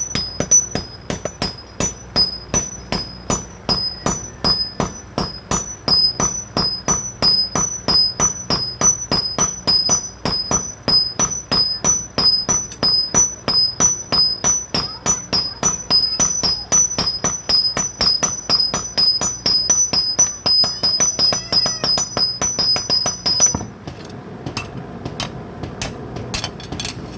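Hand hammers striking hot metal on a blacksmith's anvil in a fast, steady rhythm of about four blows a second. Each blow has a high metallic ring, and the ring alternates between two pitches from blow to blow. The hammering stops a few seconds before the end, leaving a rougher, lower noise.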